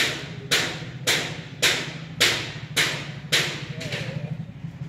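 Maruti Suzuki Swift's diesel engine idling with a steady low hum. Over it come sharp knocks about twice a second that fade out near the end.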